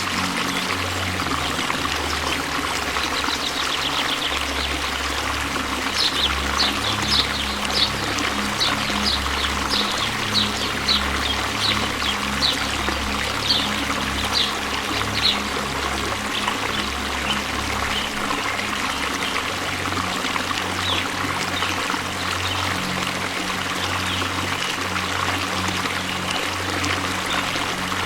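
Waterfall: loud, steady rushing and pouring water. From about six seconds in to about fifteen seconds in, a run of short, sharp high sounds comes through it, one or two a second.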